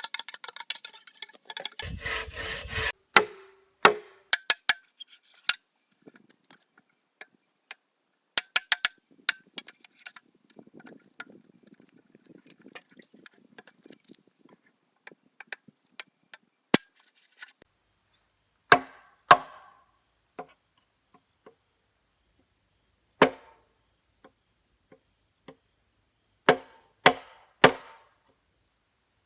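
Irregular sharp knocks of a hand tool striking wood, a dozen or so strikes spread out with long pauses between them, with some scraping in the first few seconds.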